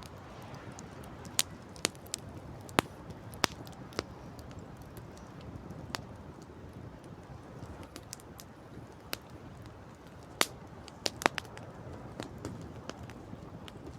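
Wood campfire crackling, with irregular sharp pops and snaps, a cluster of the loudest near the end, over a steady low rumble.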